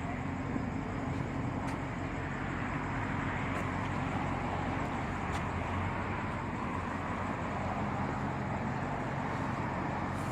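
BMW 650i Gran Coupe's twin-turbo V8 idling steadily.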